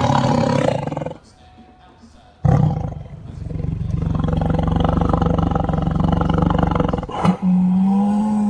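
Big cat roaring: a roar ending about a second in, then after a short pause a long, low, rumbling roar of several seconds. Near the end a different animal's steady, held call begins.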